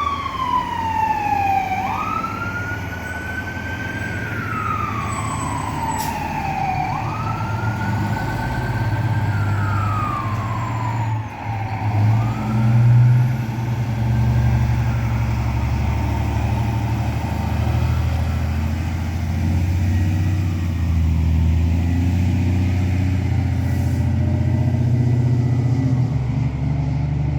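Fire truck siren wailing, each sweep rising quickly and falling slowly, three times. It fades about twelve seconds in, and the low rumble of the heavy fire apparatus engines grows loud and continues.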